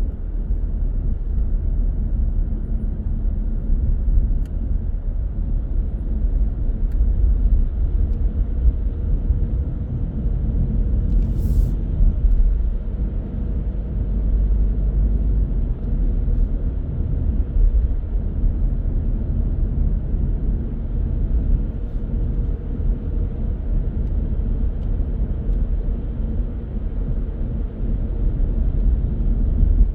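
Car driving steadily, a constant low rumble of road and engine noise, with a brief hiss about eleven seconds in.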